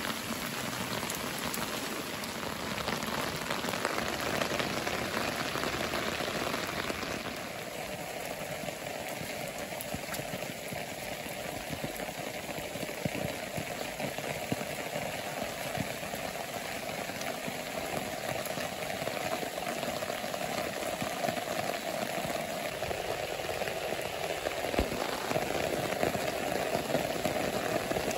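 Steady rain falling and pattering on wet stones, leaves and ground.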